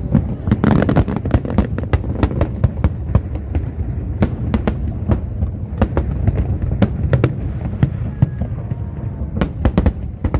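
Fireworks display: a dense, irregular run of sharp bangs and cracks, several a second, over a continuous low rumble of distant explosions.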